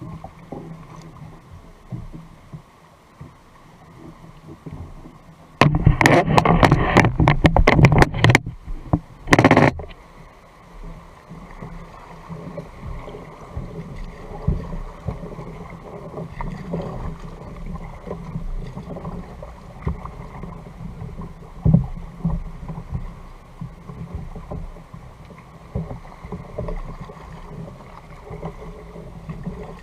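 Small knocks and water sounds against a kayak's hull at sea. About six seconds in there is a loud burst of rapid clicks and rustling lasting about three seconds, and a short loud one follows a second later.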